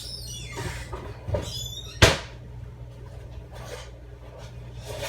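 Handling noise as parts are moved about: rustling and scraping, then one sharp knock about two seconds in, over a steady low hum.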